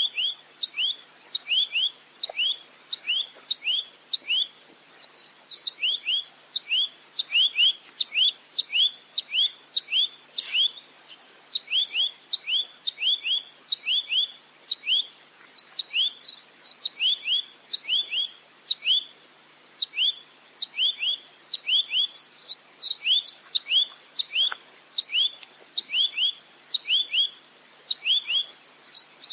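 Rambatan (nuthatch) song, a long series of short, sharp down-slurred whistled notes repeated about two to three a second, with brief higher twittering phrases mixed in now and then.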